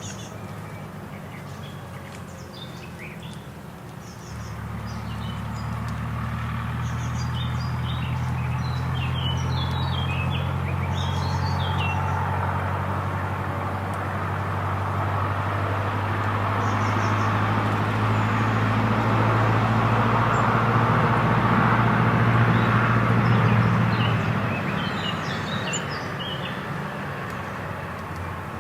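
A steady low engine hum starts about four seconds in, slowly grows louder, then drops away after about twenty seconds. Small birds chirp briefly at the start and again near the end.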